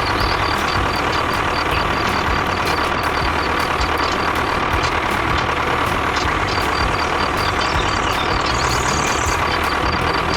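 Toy tractor running, with a steady engine-like hum and a rapid series of high beeps that pause briefly midway.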